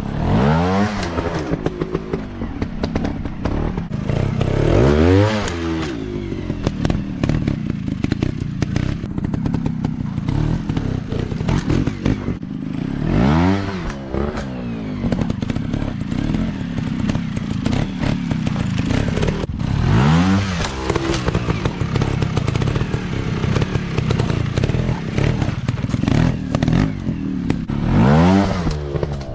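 Off-road dirt bike engines running hard over rough ground, revving up and dropping back five times, with clattering and knocks from the bikes over the terrain.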